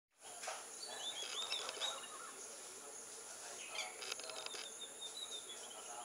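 Wild birds calling: quick chirps and twitters, with a longer falling whistle near the end, over a steady high hiss.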